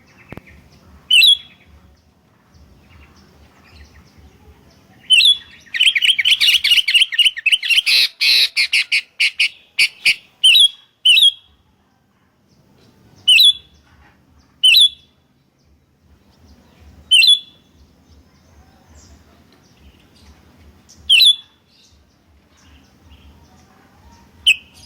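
Sooty-headed bulbuls calling back and forth: short, sharp calls every couple of seconds, with a burst of rapid chattering from about five to ten seconds in.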